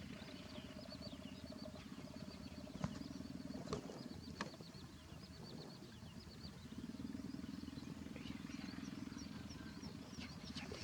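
Field ambience: a low, steady motor drone that fades for a couple of seconds mid-way and then returns, with a repeated high chirping over it and a few sharp clicks in the first half.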